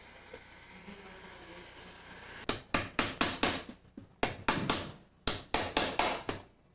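Hammer blows during work on an old window sash: about fourteen sharp strikes, roughly four a second, in three quick runs starting about two and a half seconds in, after a faint steady hiss.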